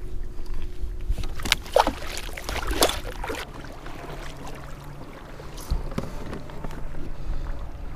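Handling noises on a kayak: a cluster of sharp knocks and rattles about one and a half to three and a half seconds in, with a few lighter knocks later, over a steady low rumble.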